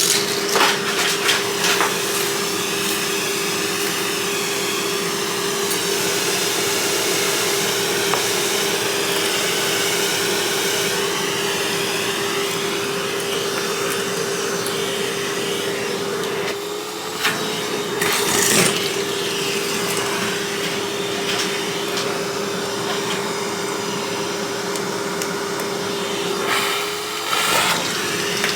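Vacuum cleaner running steadily with a constant hum, broken by short bursts of clattering and rattling just after the start, about two-thirds of the way through and near the end, where the motor note briefly wavers.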